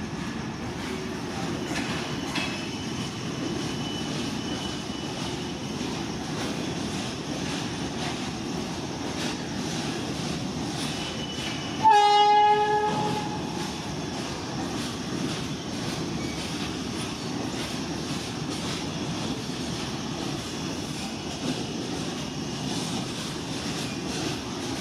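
Indian Railways express train running past with a steady rumble of wheels on track. About halfway through, the locomotive horn gives one short, loud blast.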